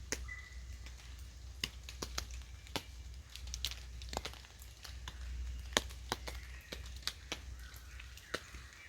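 Scattered raindrops and drips tapping irregularly on a tarp overhead as a rain shower eases, over a low steady rumble.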